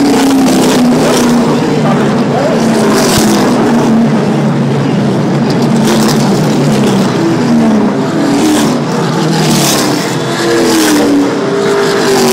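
NASCAR Camping World Truck Series trucks' V8 engines running at reduced caution-period pace as the field circles the track. Several trucks pass one after another, their engine pitches sliding as each goes by.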